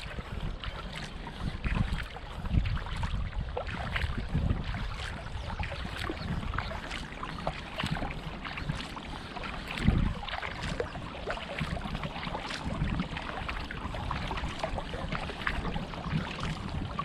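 Kayak paddling: water splashing and dripping off the paddle with small clicks and trickles, and low gusts of wind on the microphone, the strongest about ten seconds in.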